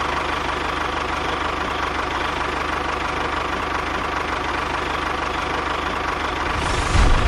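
A small motor running steadily with a fast, even chugging pulse and a steady whine, briefly louder near the end.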